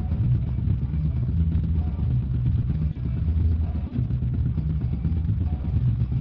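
Steady low rumble of a motorcycle on the move, picked up by a helmet intercom microphone: wind buffeting mixed with engine noise, with a slight dip about three seconds in and again near four seconds.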